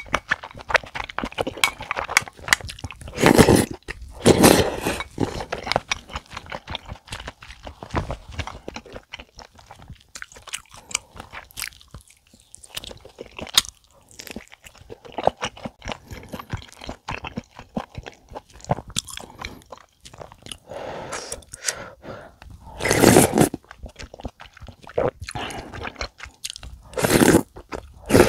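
A person chewing and biting food close to a sensitive microphone, with crunches and many small wet mouth clicks. A few louder bites stand out.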